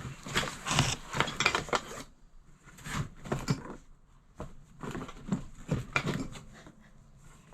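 Metal tins knocking and clinking together as they are rummaged through and handled, an irregular run of short clatters, busiest in the first two seconds.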